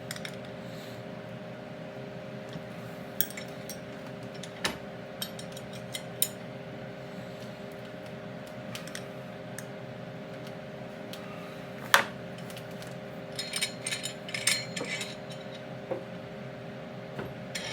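A wrench and steel parts clinking now and then while the bolts of a riding mower's differential are tightened, with one sharp clink about twelve seconds in and a flurry of small clinks just after. A steady hum runs underneath.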